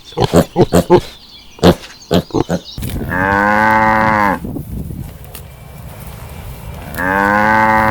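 A cow mooing twice, each moo a long, even call lasting about a second and a half, the second starting about four seconds after the first. Before the first moo comes a quick run of short grunts.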